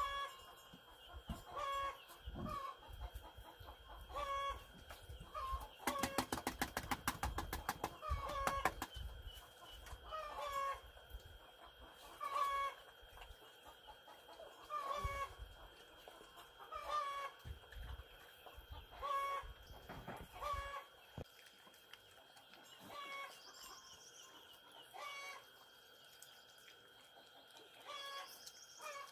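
Chickens clucking in short calls repeated every second or two, with a stretch of rapid clattering about six to nine seconds in and a faint steady high whine underneath.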